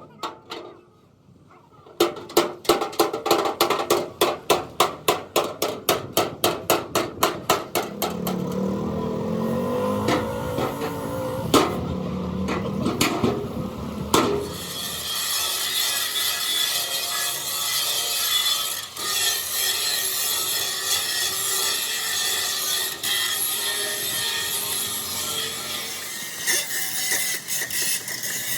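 Hammer blows on sheet metal, about three or four a second, then a steady noise from a power tool working the metal of a damaged truck cab.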